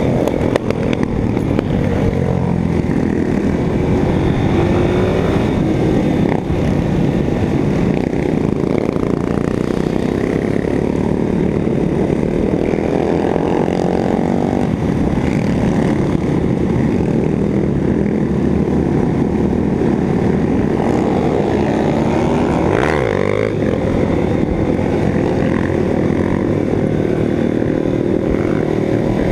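Motorcycle engine running under way, its pitch rising and falling as the throttle opens and closes, with a quick rev about three-quarters of the way through.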